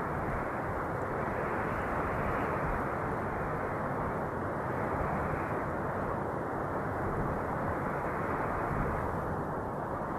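Steady wind noise: a dense, even rush with little high hiss, swelling and easing gently every few seconds.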